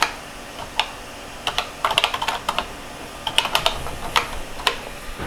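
Keys being typed on a computer keyboard: irregular clicks, a single one about a second in, then quick runs of keystrokes around two and three and a half seconds in, with a few single strokes near the end.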